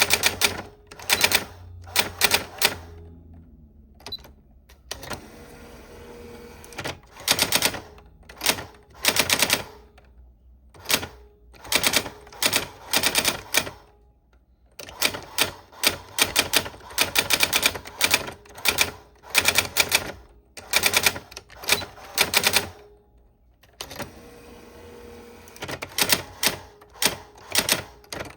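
Old typewriter being typed on: keys striking in quick runs of sharp clacks, broken by short pauses.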